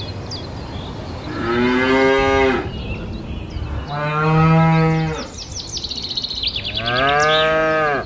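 Cattle mooing: three long moos of a little over a second each, about two and a half seconds apart, each a little different in pitch. Short high chirps sound around them, with a quick run of them between the second and third moo.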